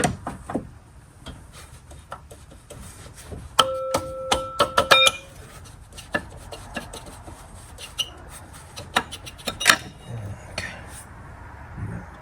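Metal hand tools and engine parts clinking and knocking during work on the engine's front end, with a brief metallic ring about four seconds in.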